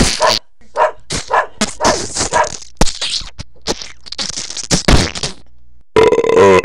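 A dog barking and growling in a rapid series of short, rough bursts, with a couple of sharp knocks among them.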